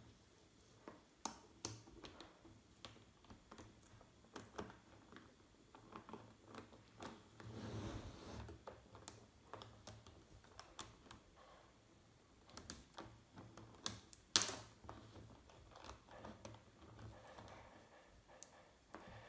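Small magnetic balls clicking and snapping together one at a time as a model is built, in irregular faint clicks. A brief rustling scrape comes about eight seconds in, and a louder cluster of clicks about fourteen seconds in.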